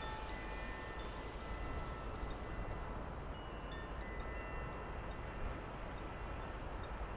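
Wind chimes ringing lightly: scattered clear high notes that each hang for a moment at fixed pitches, over a steady low outdoor rumble.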